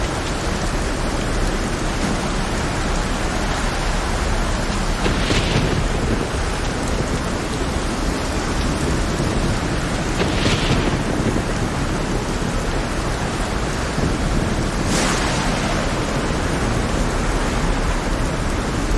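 Heavy, steady rain over a constant low rumble, with three short hissing surges about five seconds apart.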